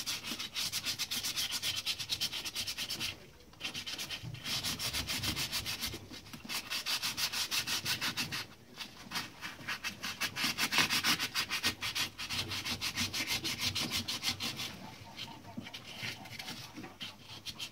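Rapid back-and-forth hand scrubbing or sanding strokes, several a second, in bouts broken by short pauses, as a typewriter part is cleaned during restoration.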